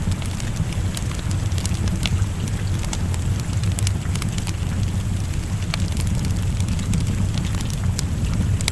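Wood fire crackling with scattered sharp pops, over a steady low rush of rain.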